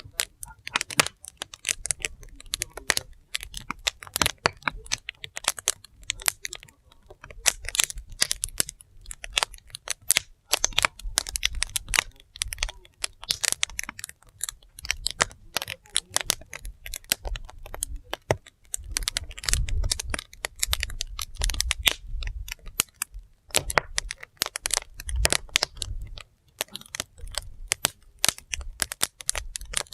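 Firewood fire crackling, a dense, irregular run of sharp snaps and pops, with a low rumble swelling now and then.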